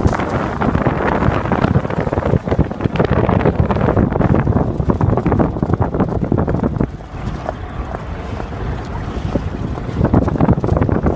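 Wind buffeting the microphone over splashing water as a horse is ridden through it, easing off for a few seconds past the middle.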